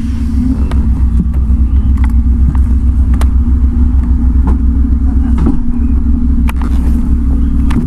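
Motorcycle engine idling close by: a steady, pulsing low rumble with no revving, and a few small clicks over it.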